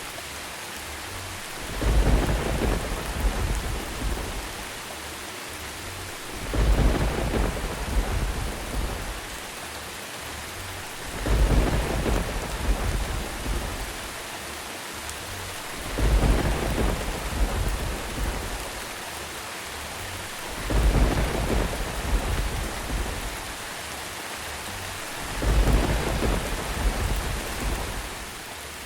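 Steady rain hiss with a low thunder rumble swelling up about every five seconds, six times at even intervals.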